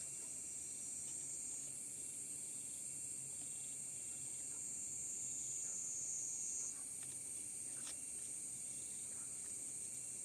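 Insects droning steadily in a high-pitched chorus. A second, slightly lower drone joins for about five seconds in the middle, with a few faint ticks.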